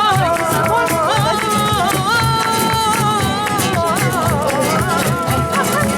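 Flamenco-style singing over a rhythmically strummed acoustic guitar, the voice holding long, wavering notes.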